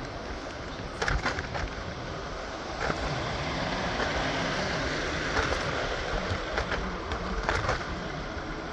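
Steady vehicle and traffic noise from a moving ride through city streets, with a few sharp clatters about a second in, around three seconds in and near the end.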